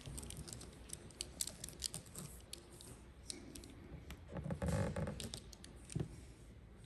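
Gloss black vinyl wrap film being worked by hand onto a car door handle: scattered light clicks and crinkles, with a louder rubbing sound about four and a half seconds in and a short knock about a second later.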